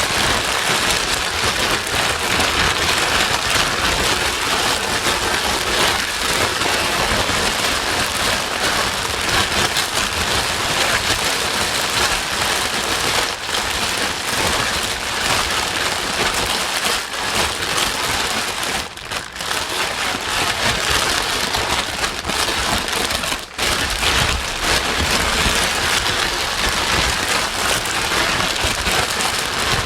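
Steady white noise like heavy rain pattering, a dense even hiss with fine crackle, dipping briefly twice a little past the middle.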